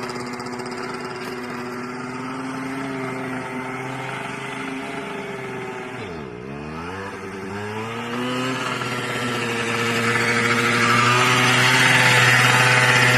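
1977 Suzuki TS100's two-stroke single-cylinder engine running as the bike is ridden. About six seconds in the revs drop sharply and then climb again, and the engine grows louder toward the end.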